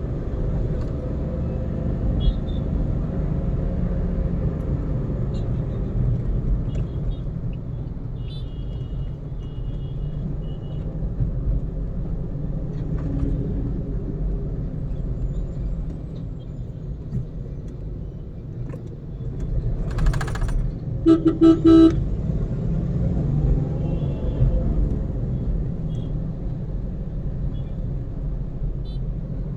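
Steady road and engine rumble of a car driving in traffic. About twenty seconds in a vehicle horn sounds a quick run of short honks.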